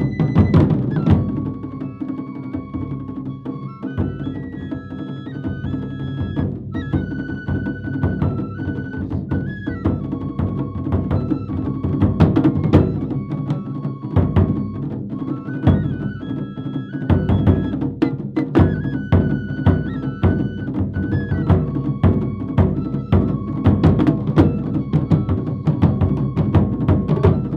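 Japanese taiko drum ensemble playing a fast, dense rhythm of drum strikes, with a high melody line carried over the drumming.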